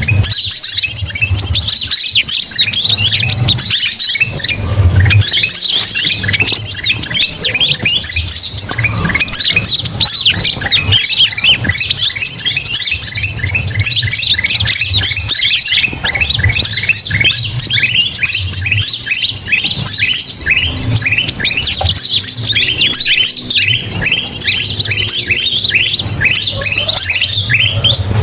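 Bird-lure recording of a flock of small songbirds, kutilang mas bulbuls among them, calling noisily all at once: dense rapid chirps and squeals that repeat in a loop about every six seconds, over a faint low hum.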